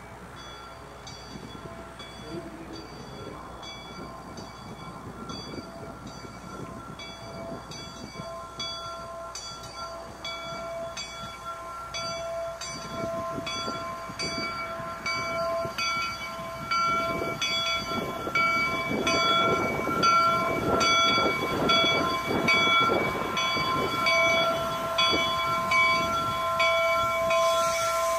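A train drawing closer and growing steadily louder, with regular clicking of wheels about twice a second and a rumble that builds in the second half. Over it runs a sustained whistle-like chord of steady tones.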